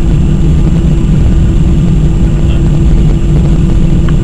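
Steady cabin noise inside an Airbus A319-100 airliner: a loud, even low rumble of the jet engines and airflow with a constant hum over it.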